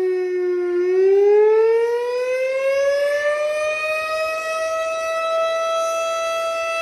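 Fire truck siren wailing: a single pitched tone that dips slightly, rises steadily in pitch over about three seconds, then holds at the higher pitch.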